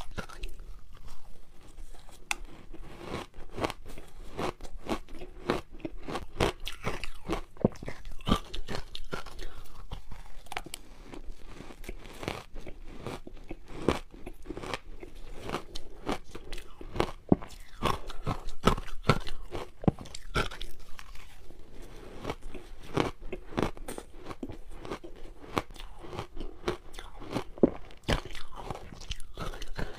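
Close-up crunching of hard ice being bitten and chewed: a dense, irregular stream of sharp cracks and crackles as frozen matcha ice balls are eaten.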